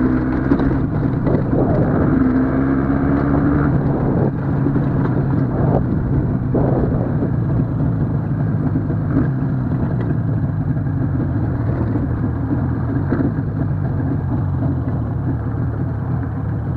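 IZh Jupiter motorcycle's two-stroke twin engine running under way at a steady speed.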